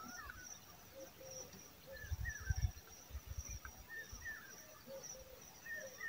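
Short, scattered chirping bird calls that glide up and down, over a faint steady high insect buzz. Low thumps of wind on the microphone come a couple of seconds in.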